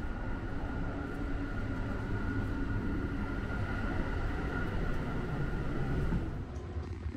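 Sunrise Express sleeper train heard from inside while running: a steady low rumble with a thin steady high tone over it. About six seconds in, the tone drops out and the rumble gets slightly quieter.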